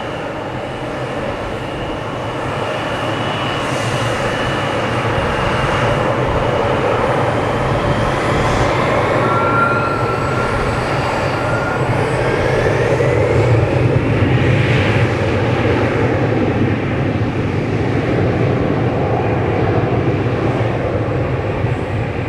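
Embraer E170 twin-turbofan airliner taking off at takeoff thrust: a steady loud jet rush with whining tones that glide in pitch as it passes, loudest about halfway through.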